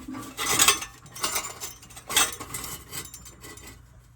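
Loose metal exhaust parts clinking and rattling as they are handled, with a few sharp metallic clinks.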